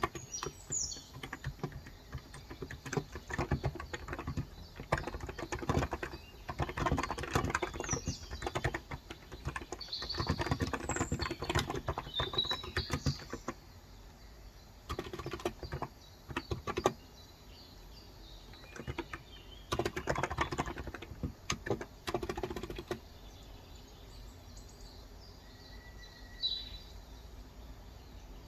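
Typing on a Cox Endeavor tenkeyless electrostatic capacitive keyboard with 35 g switches, in runs of keystrokes with short pauses, the typing stopping about 23 seconds in. Birds chirp in the background, and one call stands out near the end.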